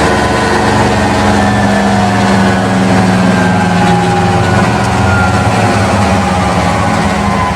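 Diesel engine of a 1969 GMC 9500 truck running steadily, its pitch easing down slightly partway through.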